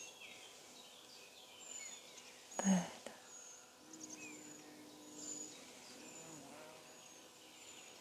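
Faint birdsong: short high chirps repeating every second or so. About three seconds in there is one brief, louder vocal sound from the instructor.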